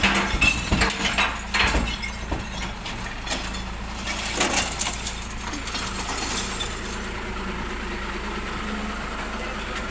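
Glass bottles clattering and smashing as recycled glass is tipped into the glass truck, with a run of sharp impacts over about the first five seconds that then dies away. The truck's diesel engine idles steadily underneath.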